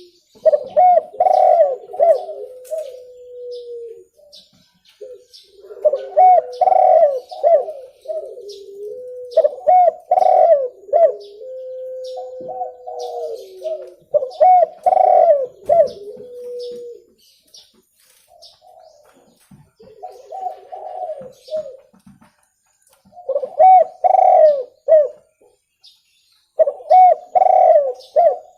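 Spotted doves cooing in repeated phrases a few seconds long with short pauses between them, several ending in a drawn-out steady note. Faint higher chirps sound in the background.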